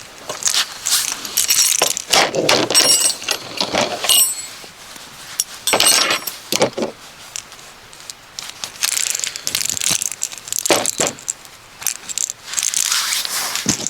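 Metal camping gear clinking and rattling as it is handled, in irregular bursts with a few brief ringing clinks.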